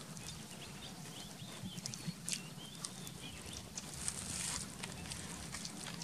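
Faint wild-bird calls, thin wavering notes in the middle, over a steady low hum, with scattered faint ticks and a short hiss about four seconds in.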